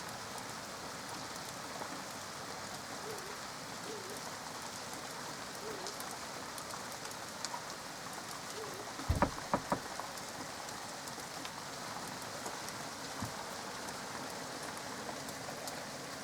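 Steady rain falling, with a quick cluster of four sharp knocks a little past halfway through.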